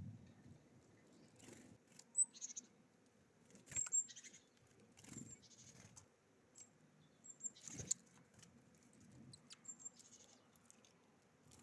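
Small songbirds at a seed feeder: scattered brief, high chirps, mixed with light pecking taps and rustling of seed and wings.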